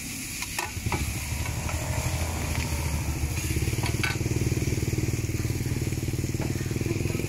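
Pad thai noodles sizzling on a large flat wok-griddle, with metal spatulas scraping and clicking on the pan in the first second and again about four seconds in. From about a second in, an engine runs close by with a steady low pulsing, louder than the sizzle.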